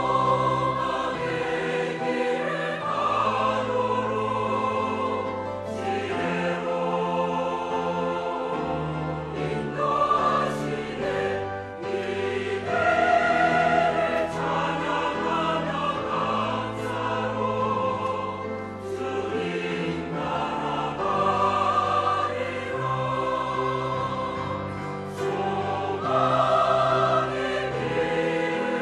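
Church choir singing a sacred anthem in parts, with sustained bass notes underneath that change every second or two.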